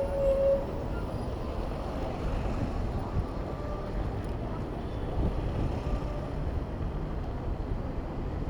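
Wind rumbling on the microphone of a camera on a moving bicycle, over city traffic noise. A steady high tone stops about half a second in.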